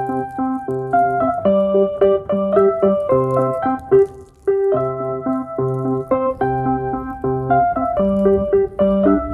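Keyboard music: a piano-like melody of held notes over repeating low notes, breaking off briefly about four seconds in.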